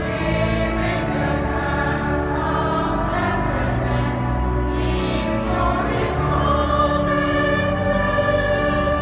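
Choir singing sustained chords with a steady low organ bass underneath.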